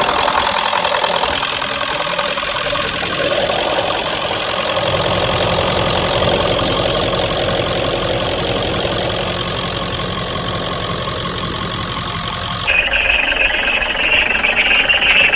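Ford 7.3 L Powerstroke turbo-diesel V8 of a 1996 F-350 idling steadily, just after being started. About 13 seconds in, the balance of the sound shifts.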